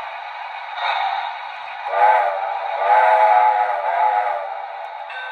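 Sound system of a Weaver brass O-scale 2-8-0 Consolidation with TMCC blowing its steam whistle over a steady hiss: a short blast about two seconds in, then a longer one. The sound board works again after its loose boards were reseated.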